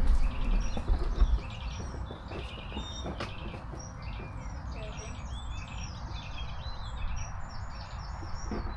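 Several small birds chirping and singing at once, in short varied phrases. A low rumble underneath dies away in the first second and a half.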